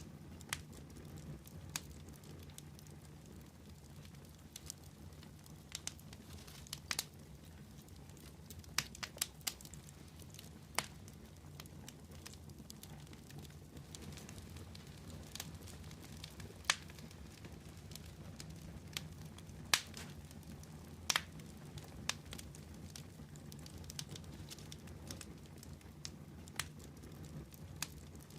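Wood fire crackling, with irregular sharp snaps and pops about once a second over a low steady rumble.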